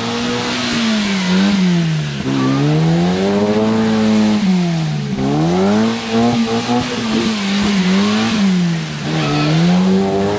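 UAZ Bukhanka van's V8 engine revving up and dropping back about four times in a row as the van fights its way through slippery clay, without its differential locks engaged.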